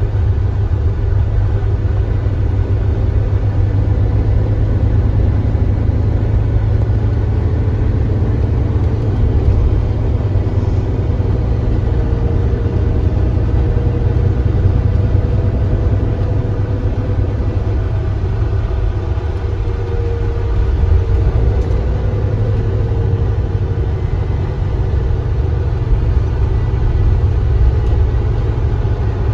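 Kia Granbird Sunshine coach's engine running, a steady low drone with faint engine tones that drift slightly in pitch.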